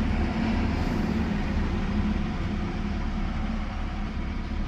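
Steady low rumble of motor vehicles running nearby.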